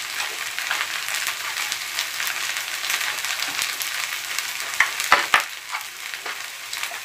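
Kimchi fried rice sizzling and crackling in a hot pan, a steady hiss dotted with small pops. About five seconds in, a few sharp clicks of chopsticks and a metal spoon against the pan.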